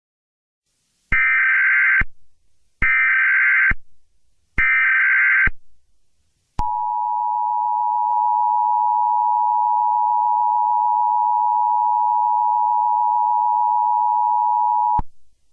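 Emergency Alert System alert opening: three short bursts of SAME header data tones, each about a second long, followed by the EAS two-tone attention signal, a steady dual tone held for about eight seconds and then cut off.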